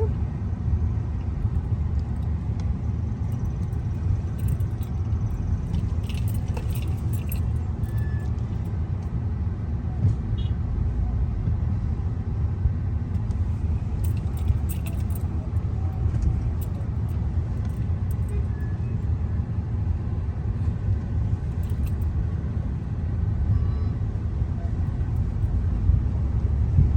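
Car driving along a road, heard from inside the cabin: a steady low rumble of engine and tyres, with faint light clinks now and then.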